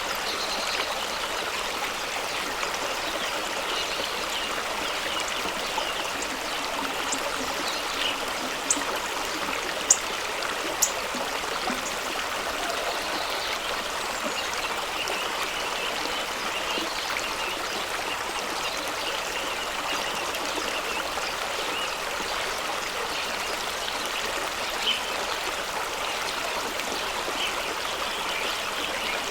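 Fast-running stream rushing and trickling over rocks, a steady even wash of water, with a few brief sharp splashes around nine to eleven seconds in.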